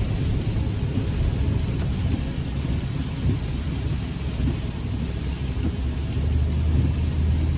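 Road and engine noise inside a moving car: a steady low rumble that grows a little louder about six seconds in.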